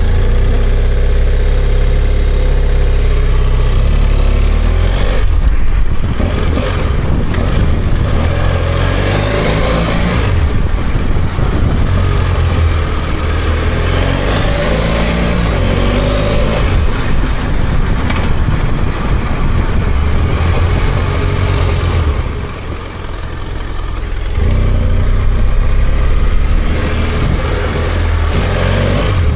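BMW F800GS parallel-twin engine running as the motorcycle is ridden, its pitch rising and falling as it accelerates and eases off, over a steady rush of wind and road noise. About three quarters of the way in it drops briefly to a quieter, lower note, then picks up again.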